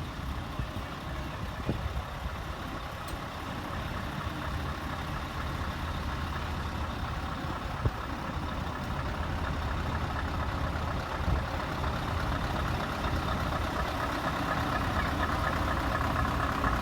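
Heavy truck diesel engine running steadily, growing gradually louder, with a few brief clicks.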